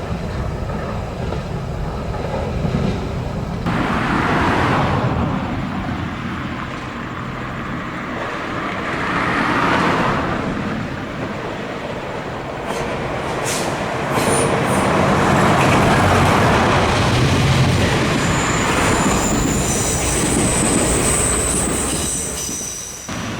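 A train running past on the rails, its wheels rumbling and clattering in swells that rise and fall, with a thin high wheel squeal over the last few seconds.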